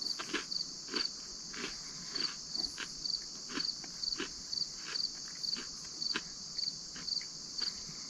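Insect chorus of crickets or katydids: a steady high-pitched buzz with rhythmic pulsed calls about twice a second. Irregular soft crunches close by run through it.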